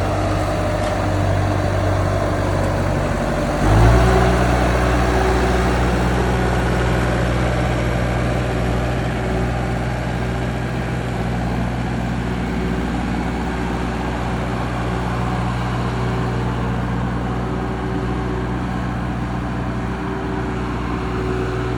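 Bobcat 873 skid steer's diesel engine running steadily. About four seconds in, it picks up speed with a brief jump in loudness, then holds at the higher speed.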